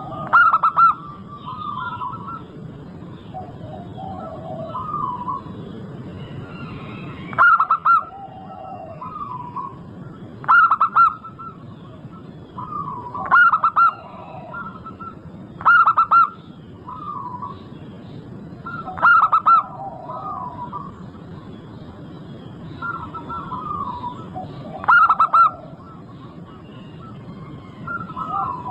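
Zebra doves singing: loud, short, stuttering coo phrases every few seconds, with softer cooing between them, over a low steady background noise.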